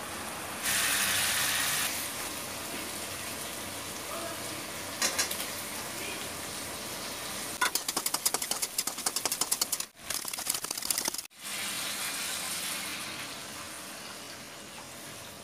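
Paneer cubes hitting hot oil in a steel wok: a loud sizzle about a second in that lasts about a second, settling into a steady frying hiss. Past the middle comes a few seconds of quick metal clicking and scraping in the wok as the pan is stirred.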